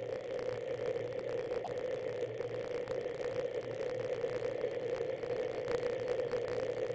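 Steady rolling noise of a bicycle being ridden: a constant hum with a fine, even rattle, unbroken throughout.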